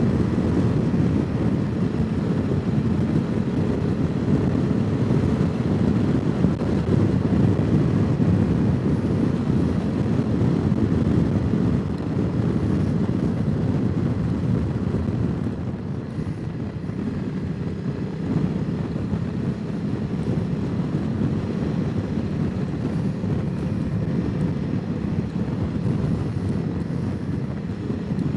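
Honda CRF300 Rally's single-cylinder four-stroke engine running at a steady road speed under heavy wind noise on the microphone. The sound eases slightly a little over halfway through.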